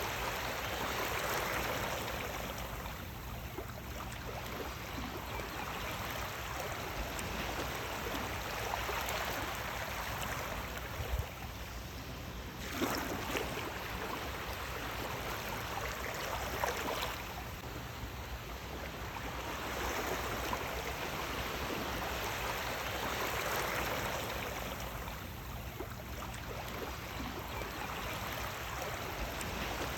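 Sea waves washing in, a steady rushing that swells and eases every few seconds, with a few brief splashes.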